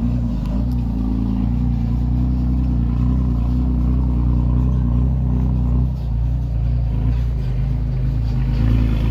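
Heavy diesel engine of earthmoving equipment running steadily with a deep, low hum; its note shifts slightly about six seconds in.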